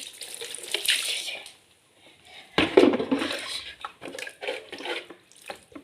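Water splashing, then a loud burst of splashing or clattering about two and a half seconds in, followed by scattered clinks and knocks.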